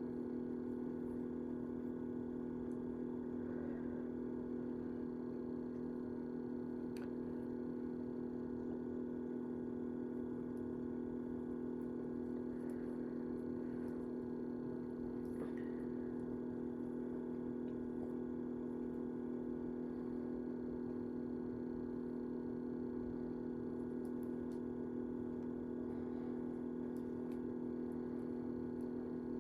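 Steady low electrical hum, unchanging, with a few faint small clicks.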